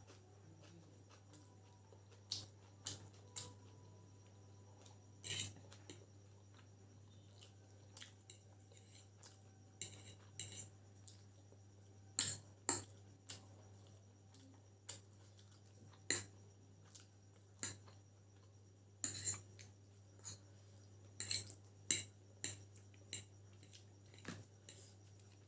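Cutlery clicking and scraping on a plate while noodles are eaten: irregular sharp clinks, in small clusters, over a steady low hum.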